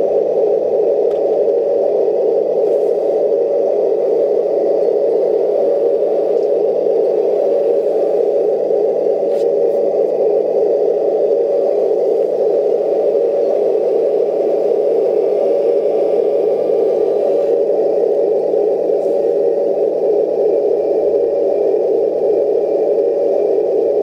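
Radio-controlled Leopard model tank with a new motor and transmission running steadily: a constant whirring, scraping mechanical noise that does not change in speed.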